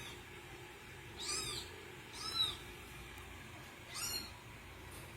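Kitten mewing: four short, high-pitched mews, each rising and then falling in pitch, spaced about a second apart.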